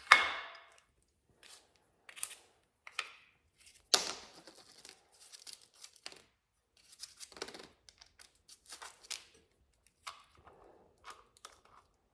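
Clicks and knocks of parts being handled while a coarser abrasive wheel is fitted onto a power tool's spindle. There is a sharp knock right at the start, another about 4 s in, and smaller clicks and scrapes in between and after.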